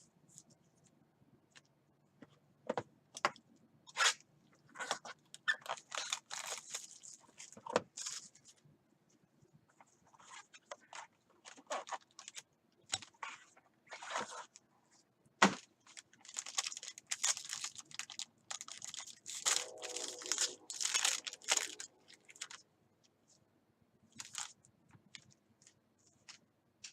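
Trading-card box and pack wrapper being torn open and the cards handled: repeated short tearing and crinkling rustles with a few sharp clicks, the loudest about halfway through.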